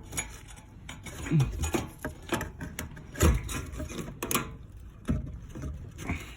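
Irregular clicks, knocks and rubbing of hands working a fuel line fitting back onto an engine's fuel rail, with a few louder knocks, mixed with handling noise from a phone held close.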